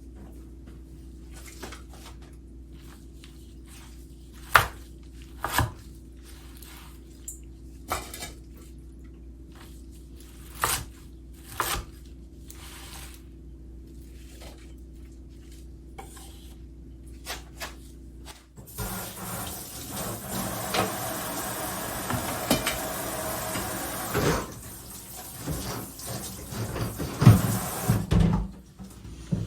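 Kitchen work: scattered clinks and knocks of dishes and utensils over a low steady hum, then about ten seconds of tap water running into the sink, with a few louder knocks of dishes near the end.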